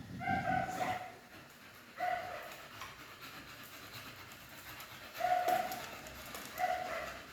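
A dog giving four short, high whining calls of steady pitch, spaced out over several seconds.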